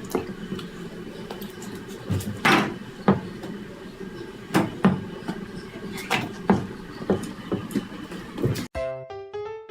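Irregular knocks and thumps over a steady background hum, with a longer rustling noise about two and a half seconds in; near the end it cuts abruptly to piano music.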